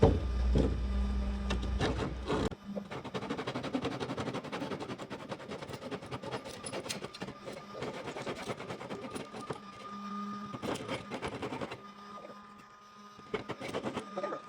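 Restored old hand saw cutting into wood: a fast, rhythmic rasp of the teeth on each stroke, running for most of the stretch after a low hum stops in the first few seconds.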